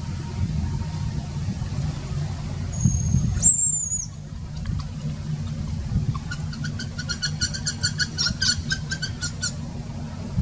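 Bird calls over a steady wind rumble on the microphone: one short high whistle about three and a half seconds in, then a rapid run of high chirps, about six a second, from about six to nine and a half seconds in.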